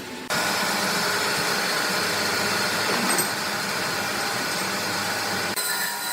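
Steady running noise of industrial machinery with a faint hum. It steps up abruptly just after the start and changes abruptly to a different, slightly quieter machine noise near the end.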